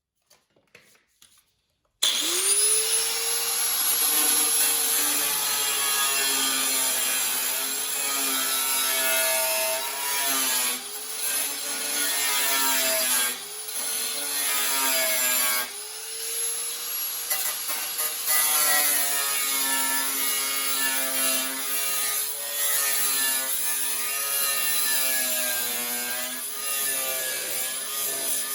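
Handheld power cutting tool starting up about two seconds in and cutting into the car's sheet metal: a steady whine that sags and recovers in pitch as it is pressed into the work, with a few brief let-offs.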